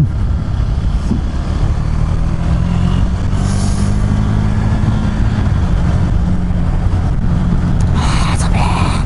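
2017 KTM 390 Duke's single-cylinder engine running steadily at a cruise, with wind rushing over the microphone.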